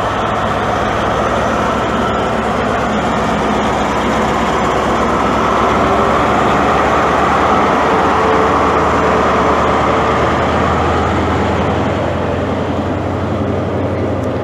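InterCity 125 (HST) pulling away, the leading Class 43 power car's MTU diesel engine under load. It gives a steady low drone that swells about halfway through and eases near the end.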